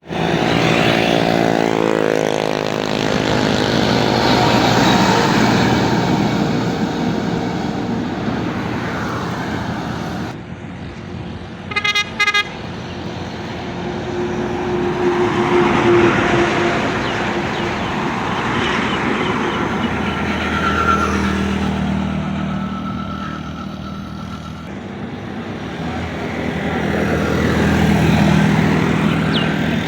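Heavy road traffic, tractor and truck engines running as they pass, swelling and fading. About twelve seconds in, a vehicle horn toots twice in short blasts.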